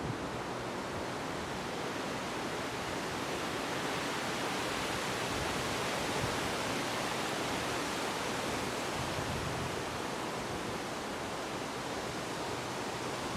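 Steady wind, an even rushing hiss that swells slightly in the middle of the stretch and eases again.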